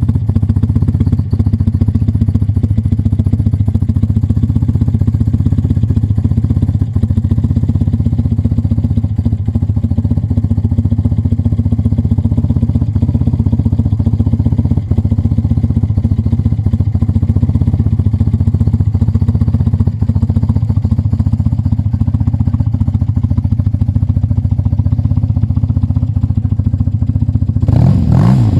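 BMW R80's air-cooled boxer twin engine idling steadily, blipped up in revs once near the end.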